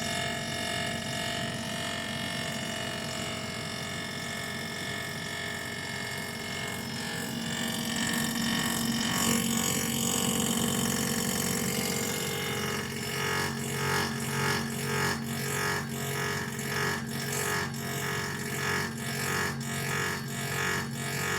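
Air fryer oven running, its fan and motor giving a steady hum over a rushing hiss. From about 13 seconds in, the hum pulses evenly a little more than once a second.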